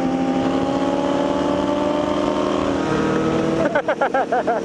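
Motorcycle engine running at cruising speed, its pitch slowly rising, with a change in its note about three seconds in. Near the end a warbling tone rises and falls rapidly about seven times.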